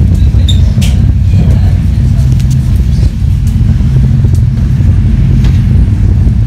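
Passenger train in motion, heard from inside the carriage: a loud, steady low rumble with faint scattered clicks.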